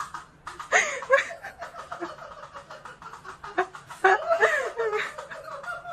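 A person laughing in quick, broken bursts, loudest about a second in and again in the last two seconds.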